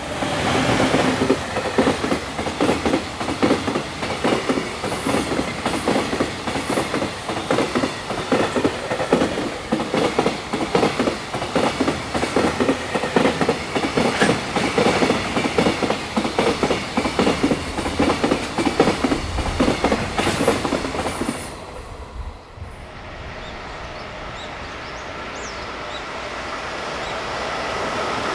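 High-speed freight train's container wagons passing at speed, wheels clattering rapidly over the rail joints. About 22 seconds in the clatter cuts off, and a smoother rumble of the next freight train, hauled by an EF510 electric locomotive, starts low and slowly grows louder as it approaches.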